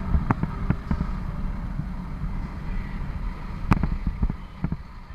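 Wind buffeting the microphone over the low rumble of a Yamaha R15 V4 motorcycle being ridden, with a few sharp knocks, the loudest about three and a half seconds in.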